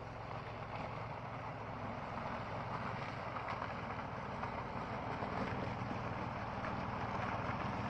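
Off-road vehicle's engine running steadily under load as it fords a river, gradually getting louder.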